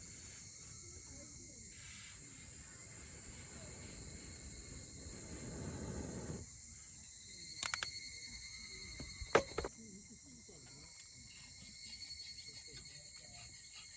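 Insects chirping steadily, a constant high-pitched trill. A low rustling swell cuts off suddenly about halfway through, followed by a few sharp clicks or knocks, the loudest of them a little later.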